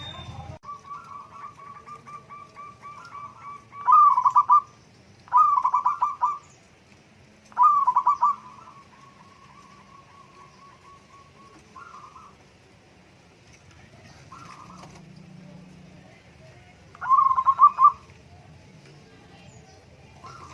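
Zebra dove (perkutut) song: long strings of quick, soft trilled notes broken by loud phrases of cooing notes, three close together early on and one more near the end.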